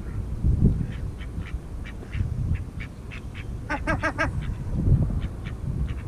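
Waterbirds calling: scattered short calls, with a quick run of about five harsh notes near the middle. Wind rumbles on the microphone throughout.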